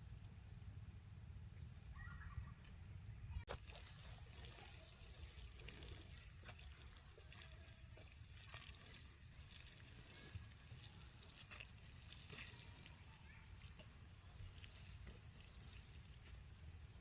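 Faint trickle of running water, with a few light clicks.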